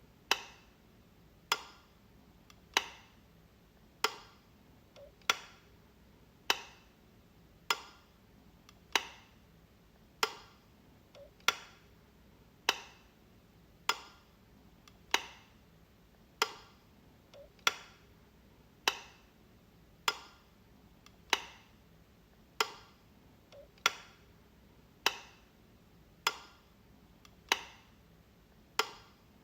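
Light switch being flicked, a sharp click about every second and a quarter in a steady, even rhythm.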